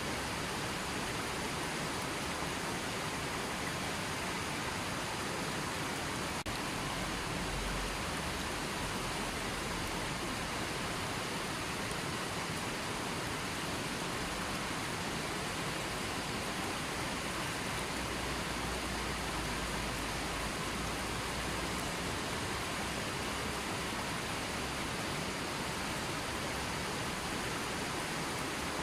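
River water flowing steadily, a constant rushing hiss with no breaks.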